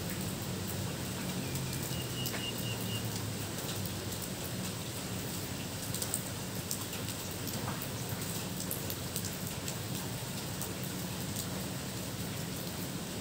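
Steady rain falling, with many single drops ticking close by. A short high trill sounds about two seconds in.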